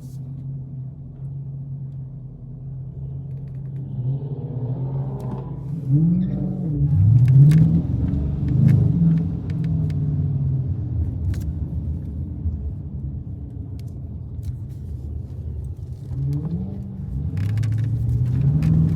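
Dodge Challenger V8 cruising with a steady drone, then accelerating hard from about four seconds in, its pitch climbing and dropping back several times as it shifts up through the gears. It settles into a steady run and climbs again near the end.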